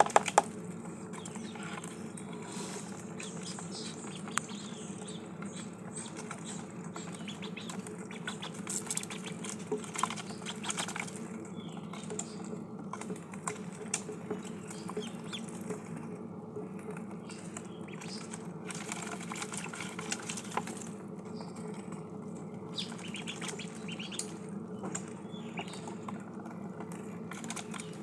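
Ducklings pecking and dabbling at their food and water: an irregular patter of small quick clicks and ticks over a steady low hum.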